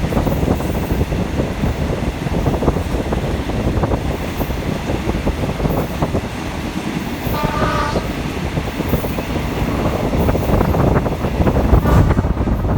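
Diesel passenger train running, heard from aboard: a steady rumble with dense clattering of wheels on rail joints. About seven seconds in, the train's horn sounds briefly.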